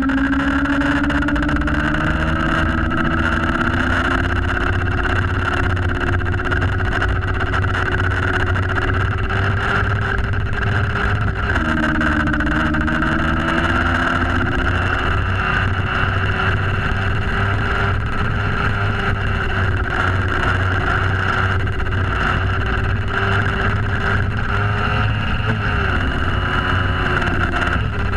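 Yamaha FZ6's 600 cc inline-four engine running hard under way, with wind noise. The revs climb slowly, drop sharply about 11 seconds in, climb again and drop again near the end.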